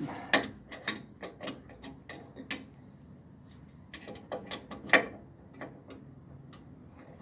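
Hand ratchet clicking in short strokes on a bolt, in two bursts of sharp clicks with a pause of about a second and a half between them.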